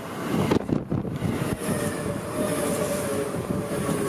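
Seibu electric train rushing past close by, its wheels rumbling on the rails, with a few sharp knocks about half a second in and a steady whine under the rumble.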